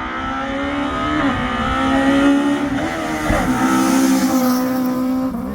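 A historic rally car's engine driven hard at full throttle, getting louder over the first couple of seconds as the car comes closer, its note breaking at gear changes about a second in and again midway.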